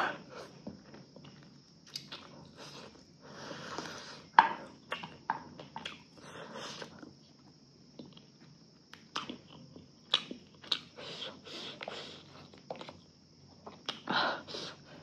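Close-up chewing and mouth sounds of a person eating rice and chicken curry: irregular wet smacks and sharp clicks.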